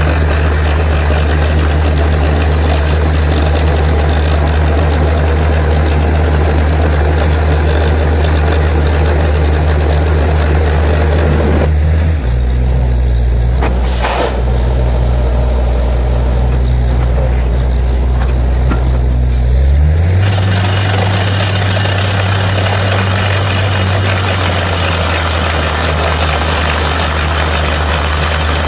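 Borewell drilling rig's heavy diesel engine running steadily under a loud rushing noise. About twelve seconds in the rushing mostly stops and the engine note drops, with a single sharp click shortly after. Near twenty seconds the engine note rises again and the rushing returns.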